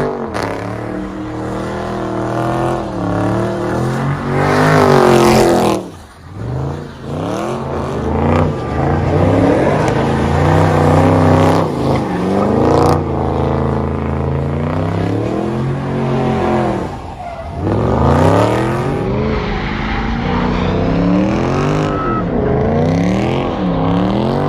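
Car engines revving hard again and again, the pitch climbing and falling with each rev, with brief lulls about six seconds in and again near seventeen seconds.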